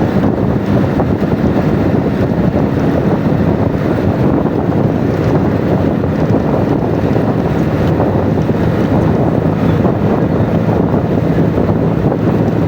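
Steady wind buffeting the microphone, over a low, continuous engine drone.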